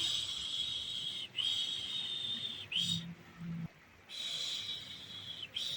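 A woman's shushing 'shhh' as a soothing sound for a baby, repeated in long hisses of about a second and a half with short breaks between them, and a pause of about a second in the middle.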